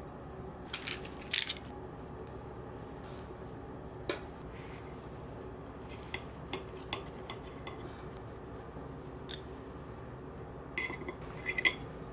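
Scattered light clinks and taps of dishes and utensils being handled, a couple about a second in and a quick cluster near the end, over a steady low hum.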